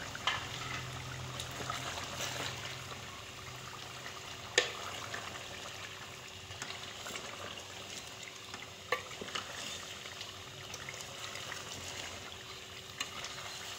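Chicken in its tomato-and-spice masala sizzling and bubbling in oil in a pot as a spatula stirs it, a steady frying hiss. A few sharp knocks of the spatula against the pot stand out, the loudest about halfway through.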